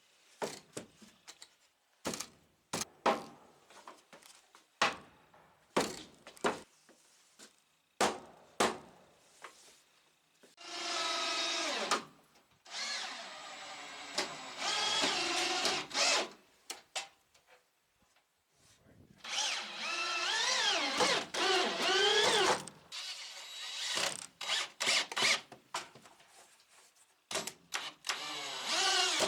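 Power drill running in runs of several seconds, its motor whine rising and falling in pitch as it drives fasteners. Before and after the runs come many short, sharp knocks.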